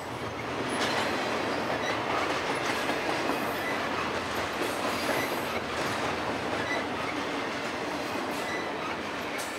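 Double-stack intermodal container train passing close by: steady noise of steel wheels rolling on rail, with short faint high squeals here and there.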